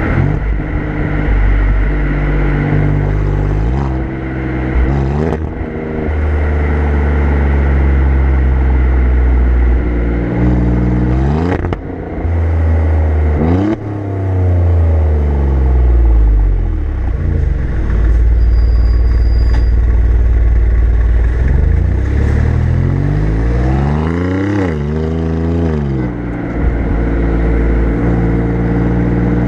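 Exhaust of an Alfa Romeo Giulia Quadrifoglio's twin-turbo V6, heard close up from the rear bumper while driving. It runs steadily, then revs up and falls back several times as the car pulls away and changes gear, with one longer climb and fall in pitch near the end, over road noise.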